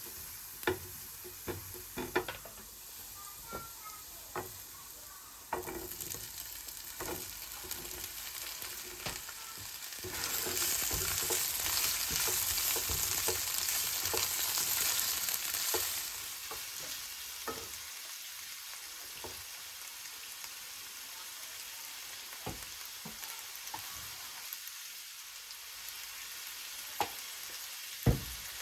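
Food frying and sizzling in a hot pan, with short knocks and scrapes of a utensil stirring it. The sizzle gets louder for about six seconds about a third of the way in, then settles back.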